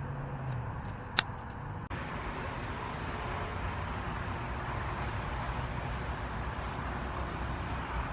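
Mini bike engine running steadily at low revs, with one sharp click about a second in.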